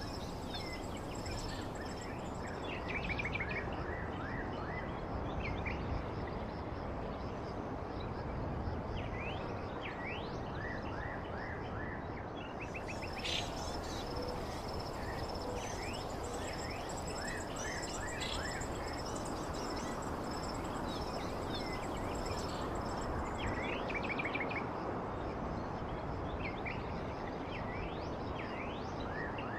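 Outdoor ambience: a steady background hiss with many short bird chirps and a thin, steady high-pitched insect-like whine throughout.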